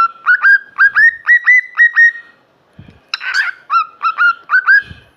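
Cockatiel calling: a fast string of short chirped whistles, about four a second, breaking off briefly and starting again with a harsher squawk before more chirps.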